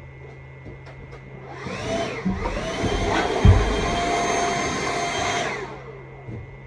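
Stihl MSA 200 C battery chainsaw's electric motor whining up to speed about a second and a half in, easing briefly and rising again, running at speed for about three seconds with a low thud partway through, then winding down.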